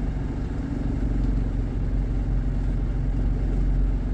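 Isuzu Panther's engine running steadily at low speed in stop-and-go traffic, a low droning hum heard from inside the cabin.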